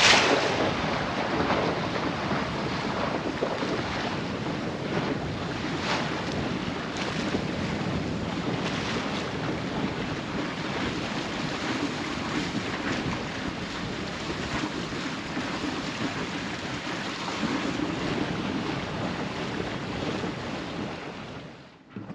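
Wind buffeting the microphone and water rushing along the hull of a sailboat under way, with occasional splashes; the sound fades out near the end.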